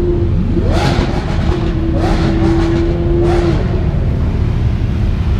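Supercar engines revving over a dense engine rumble. There are three quick rev blips whose pitch sweeps up, and one engine holds a steady high note for about three seconds.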